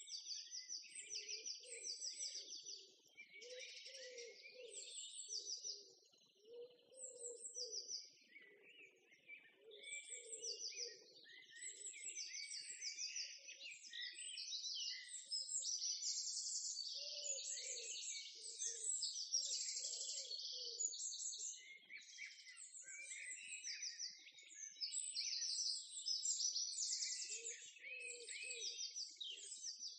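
Songbirds chirping and singing, with many short, rapidly repeated high calls overlapping. A softer, lower sound comes and goes underneath, mostly in the first half.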